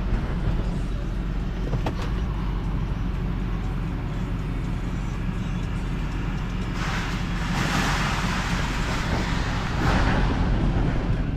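A vehicle running steadily with a constant low hum. About seven seconds in, a louder hiss swells up for around three seconds and then fades.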